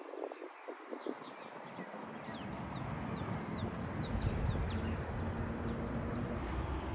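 Small birds chirping in short, quick, falling notes, with a low rumble that builds from about two seconds in and stays to the end.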